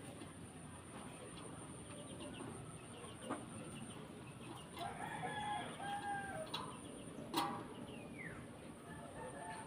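A rooster crowing once, a drawn-out call of about two seconds starting about five seconds in. Sharp knocks come about three seconds in and just after the crow, the second being the loudest sound, over a steady high whine.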